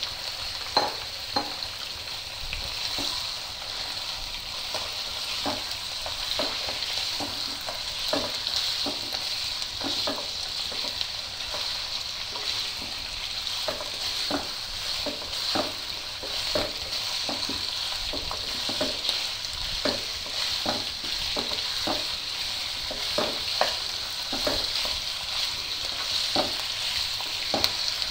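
Raw chicken pieces sizzling in hot oil in a non-stick karahi, being lightly fried while a wooden spatula stirs them, with repeated knocks and scrapes of the spatula against the pan over a steady frying hiss.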